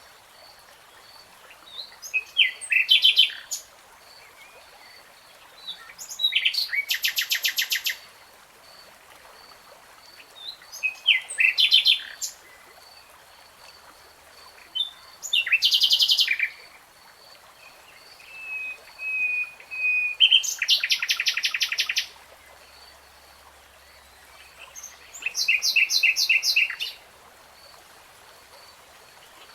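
Nightingale singing in separate short phrases every few seconds, made of rapid trills and fast repeated notes. About two-thirds of the way through, a long steady whistle leads straight into a fast rattle. A faint, even ticking runs underneath.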